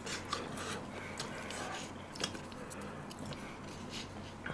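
Faint eating sounds: quiet chewing of pork spine stew with scattered small clicks, over a low steady hum.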